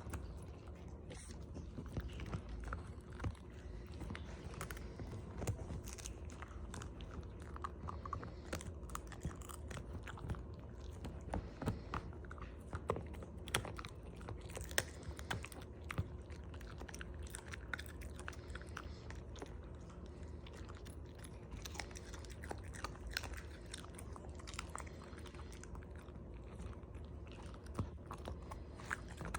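A dog chewing and crunching on herring: irregular crunches and clicks throughout, over a steady low hum.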